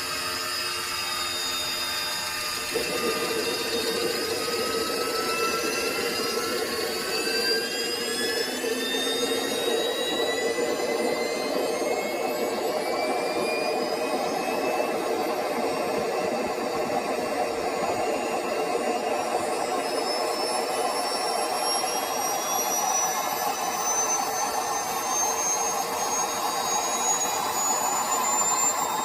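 Jet engine spooling up: a whine that rises steadily in pitch throughout, with a rushing roar that comes in sharply about three seconds in and slowly grows louder.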